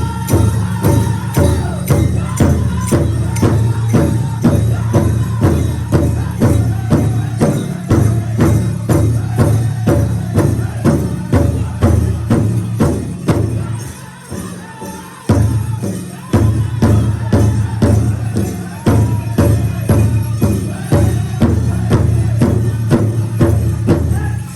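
Powwow drum group playing: a large drum struck in unison in a steady beat, about three strokes a second, under men's voices singing. The beat thins out briefly about fourteen seconds in, comes back with a hard stroke and carries on, and the song ends just at the close.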